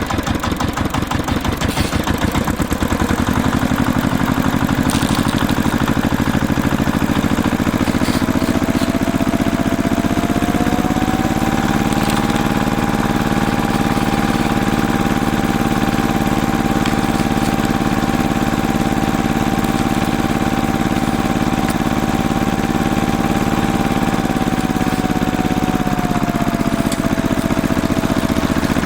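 An engine running steadily with a regular firing beat. It speeds up about ten seconds in, holds the higher speed, and drops back near the end.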